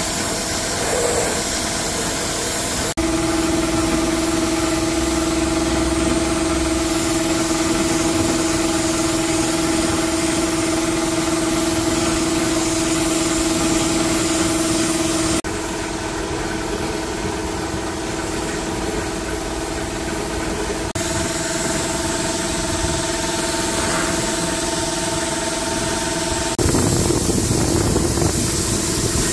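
A motor running steadily with a constant hum, in several stretches joined by abrupt cuts that change its level and tone.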